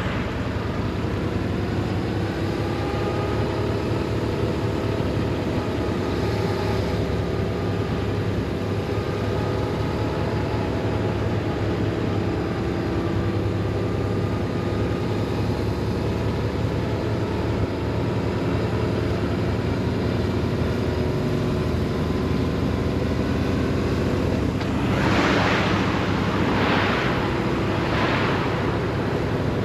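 BMW R 1150 RS's boxer-twin engine running steadily while riding, its pitch drifting slightly, over a rush of wind noise. Near the end, several louder rushing surges come in quick succession.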